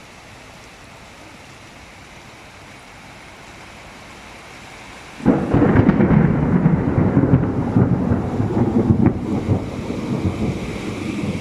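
Steady heavy rain, then about five seconds in a sudden loud thunderclap that goes on rumbling through the rest.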